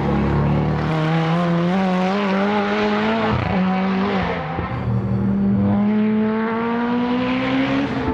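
Time attack race car engine under hard acceleration, its pitch climbing. It drops about three and a half seconds in at a gear shift, then rises steadily again through the next gear.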